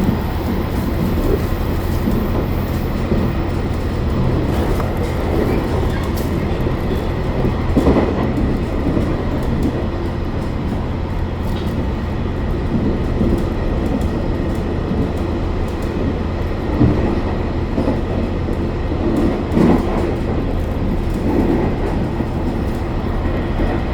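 Inside a passenger car of the Hokuto diesel limited express running along the line: a steady low rumble from the engine and wheels on the rails, with a few short thumps from the track, the strongest about 8, 17 and 20 seconds in.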